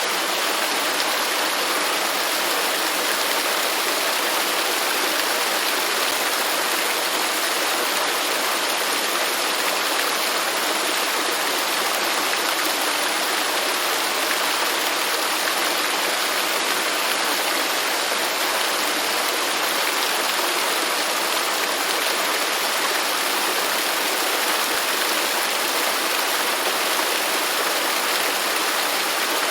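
Waterfall with rushing, splashing water, a steady even roar of white water with no bass.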